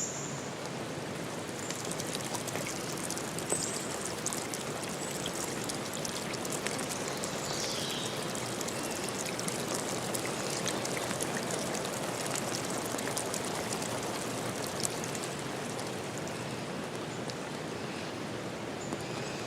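Steady rush of water, with many fine drips and patters.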